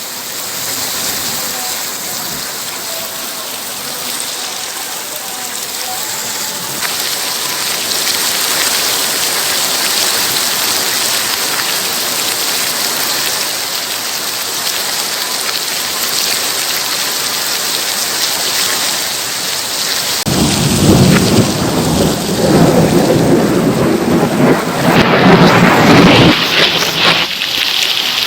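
Heavy rain falling steadily. About twenty seconds in, a loud rolling thunderclap rumbles for several seconds over the rain.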